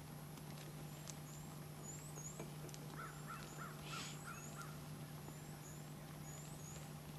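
Faint bird calls: short high chirps, often in pairs, and a quick run of about five harsher calls about three seconds in, over a steady low hum.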